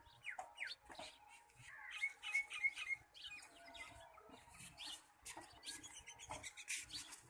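Small birds chirping: many short calls and quick sweeping notes, with a run of about five rapid repeated notes about two seconds in.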